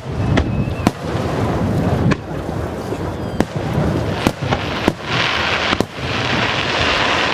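Aerial firework shells bursting overhead, a sharp bang roughly every second. From about five seconds in comes a dense crackling hiss that lasts to the end.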